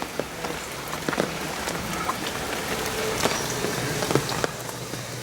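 Rain falling, a steady hiss with heavy drops tapping irregularly on a nearby surface.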